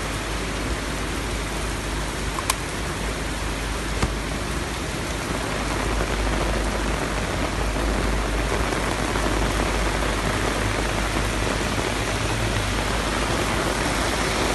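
Heavy rain pouring down steadily, a little louder from about six seconds in, with two sharp taps a few seconds in.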